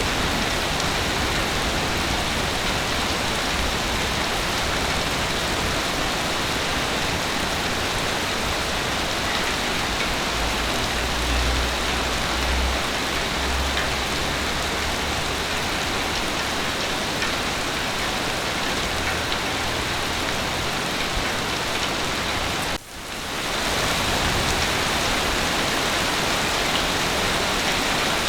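Heavy rain falling steadily, a dense even hiss, with a low rumble swelling briefly partway through. About two-thirds of the way in, the sound cuts out for an instant and fades back in.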